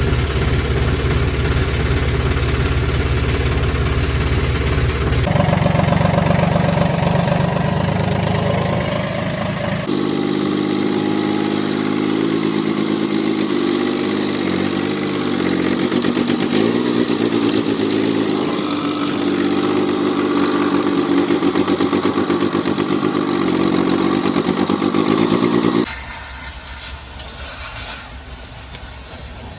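John Deere tractor's diesel engine running and revving, in several clips cut together; the engine note jumps to a different pitch at each cut, about 5, 10 and 26 seconds in, and is quieter in the last few seconds.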